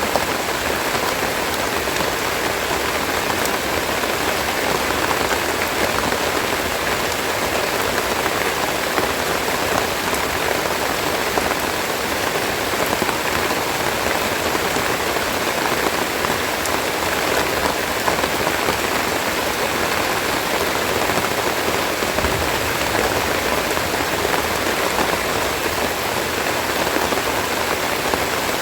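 Steady rain falling, a dense patter of drops on leaves and surfaces.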